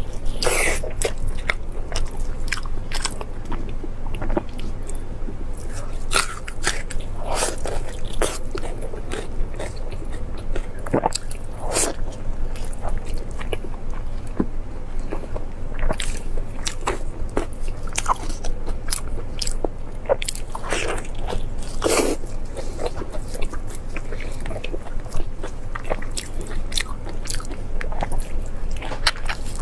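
Close-miked biting and chewing of crunchy food: frequent irregular crunches and wet clicks, over a low steady hum.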